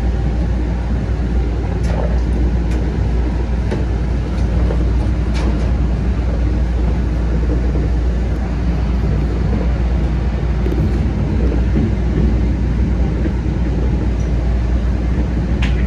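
MBTA Green Line light-rail train running at speed, heard from inside the car: a steady, heavy rumble of wheels on rail and running gear, with a few sharp ticks or squeaks from the track, the clearest near the end.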